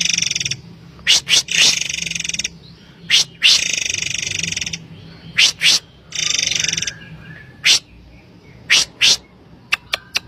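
Murai air (forktail) calling repeatedly: dry, buzzy rapid trills of about half a second to a second, four times, alternating with short, sharp, piercing notes, often in quick pairs or threes.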